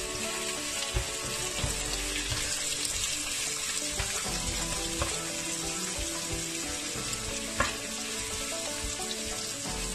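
Sliced onion and ginger sizzling loudly in a hot pot, stirred with a spatula, with a couple of sharp taps of the spatula against the pot.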